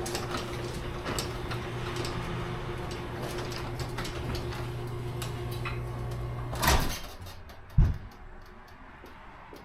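Chamberlain garage door opener motor driving the garage door along its track with a steady hum. The run stops about seven seconds in with a loud clatter, and a single heavy thump follows about a second later.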